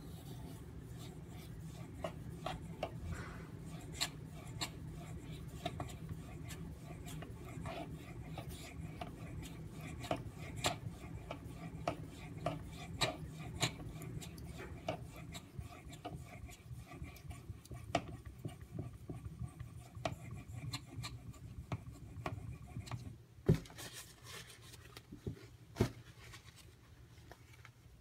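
Steel tanto knife blade scraped in repeated strokes across a fine-grit sharpening waterstone, with small clicks along the way. Two sharp knocks near the end.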